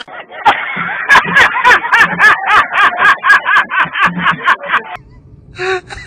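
A man laughing hard in rapid, loud, high-pitched bursts, four or five a second, which cut off sharply about five seconds in. Near the end come a few shorter, quieter high cries.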